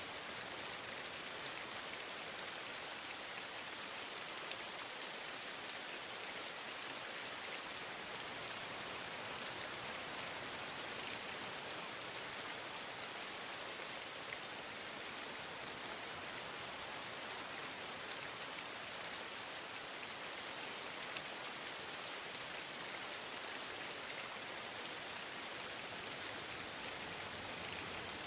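Steady rain falling: an even hiss with scattered drop ticks that stays level throughout.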